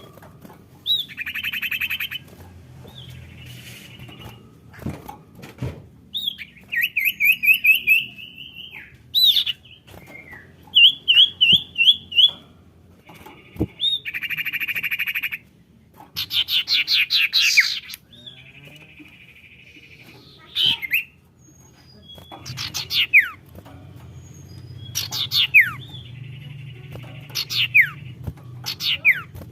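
Sirtu songbird calls from a lure recording: short phrases of buzzy, rapid trills and quick chirp runs, mixed with sharp downward-sweeping whistles, repeated with brief pauses between them.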